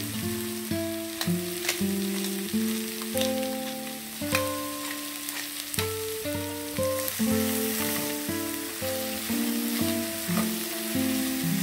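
Sliced zucchini sizzling in a hot frying pan, with a spatula stirring the slices near the end and a few sharp clicks. Background music plays a melody of separate notes over it.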